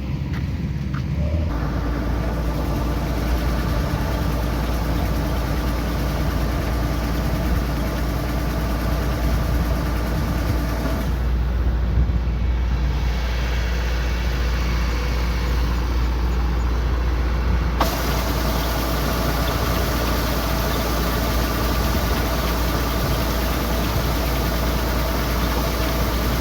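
Kubota combine harvester running steadily, a constant engine hum with machinery tones over it. The sound shifts abruptly a few times, about a second and a half in, near the middle and about two-thirds through.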